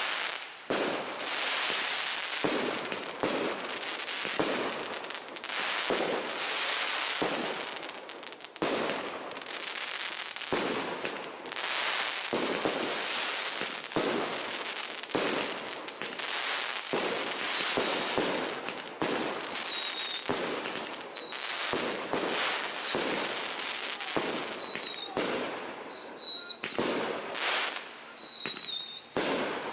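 Aerial fireworks display with large professional shells: a rapid succession of shell bursts and crackling. A high wavering whistle runs through the second half.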